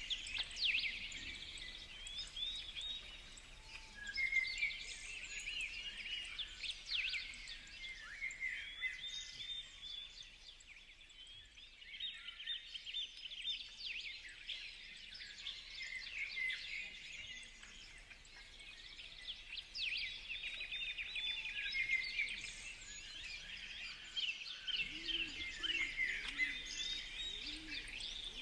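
Many small birds chirping and twittering at once in a dense, continuous chorus of short high notes, thinning out briefly midway. A few low cooing notes come in near the end.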